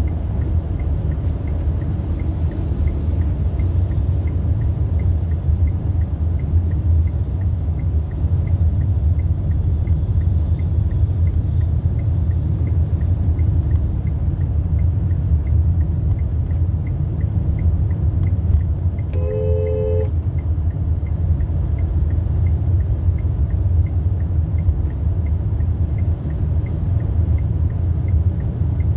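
Car driving with a steady low rumble of engine and road noise. About two-thirds of the way in a horn sounds once, a short two-tone blast.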